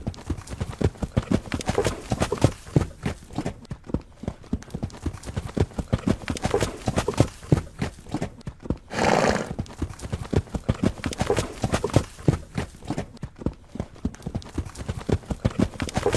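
Horse hooves striking the ground in a quick, dense, uneven clip-clop throughout. A little past halfway comes one louder, breathy burst about a second long.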